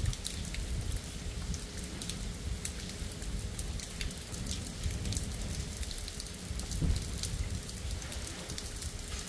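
Steady rain falling, with many separate drops ticking sharply over a constant hiss.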